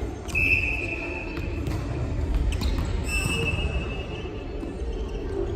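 Two long, steady high-pitched tones, each lasting a little over a second, over a low rumbling background.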